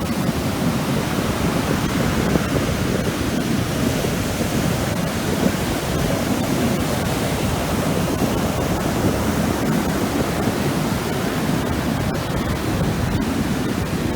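Ocean surf roaring on the shore: a steady, even rush with no single wave standing out.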